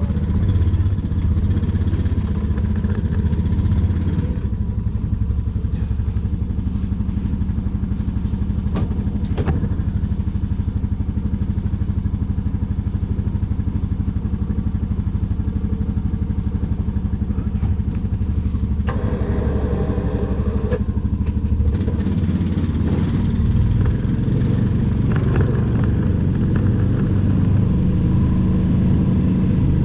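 Engine of a snow-clearing machine running steadily with a deep, even hum, and a brief rushing noise lasting about two seconds partway through.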